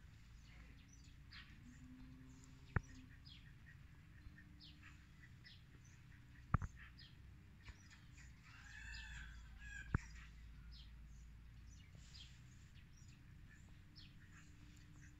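Small birds chirping in short, quick notes, with a longer call about nine seconds in. Three sharp clicks, the loudest sounds, stand out about three, six and a half and ten seconds in.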